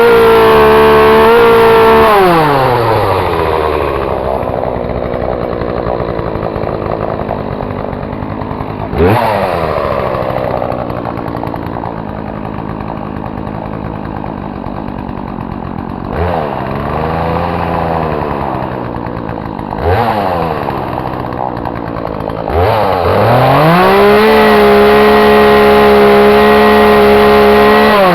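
Two-stroke chainsaw engine running at high throttle, dropping back to low speed, blipped up briefly a few times, then held at high revs again before falling away near the end.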